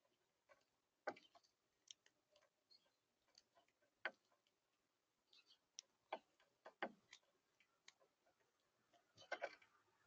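Faint, irregular clicks and taps of birds pecking at a feeder, a dozen or so spread unevenly, with a quick cluster near the end.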